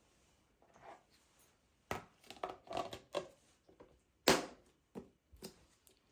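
Irregular knocks and clatters of things being handled and set down in a kitchen. There are several close together from about two seconds in, one sharp louder knock a little after four seconds, and two lighter ones near the end.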